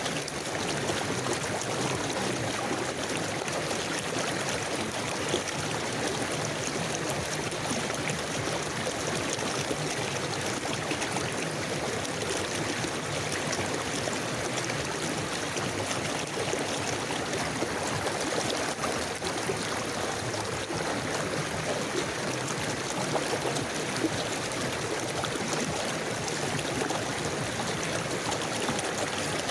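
River water flowing steadily, a continuous rushing with small gurgles and splashes.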